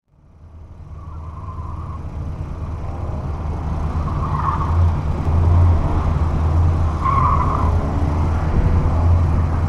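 Car engine idling steadily with a low hum, fading in over the first couple of seconds.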